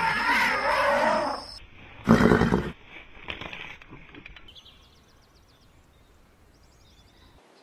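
Large animal calls: a loud, wavering call in the first second and a half, then a short, very loud blast about two seconds in, followed by a few quieter sounds that die away to faint background.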